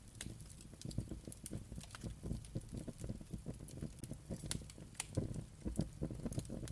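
Wood fire burning in a fireplace: irregular sharp crackles and pops over a low, soft rumble of flames.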